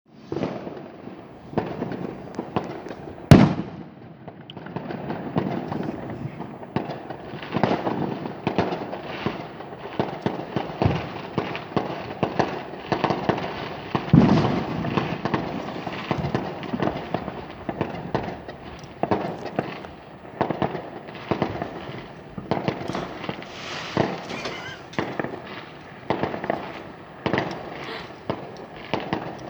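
Fireworks going off, with many overlapping bangs and crackles. The sharpest, loudest bang comes about three seconds in.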